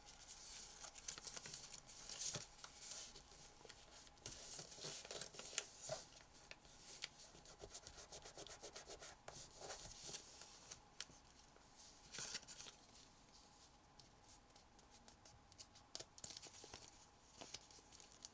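Sheet of origami paper being folded and creased by hand: faint, irregular rustling, crinkling and rubbing as fingers press the folds flat.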